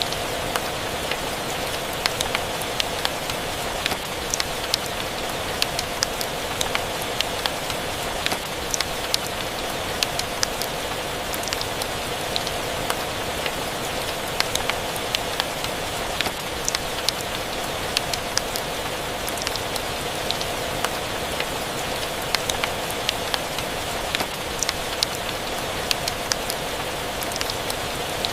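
Steady rain with a crackling fire: a constant hiss of rain under frequent sharp, irregular pops and crackles.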